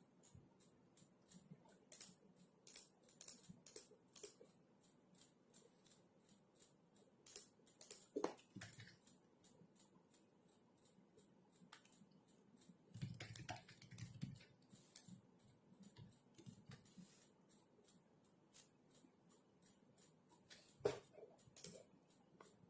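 Faint typing on a computer keyboard: quick, irregular key clicks in runs, with a couple of louder clicks about eight seconds in and near the end.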